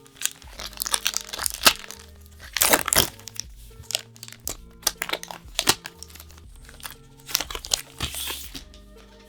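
Crinkly packaging from a Magic: The Gathering card bundle, handled in a run of sharp crackling strokes, over soft background music.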